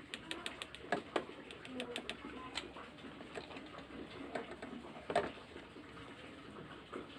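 Scattered light clicks and taps, with a quick run of them in the first second and a half and a louder one about five seconds in.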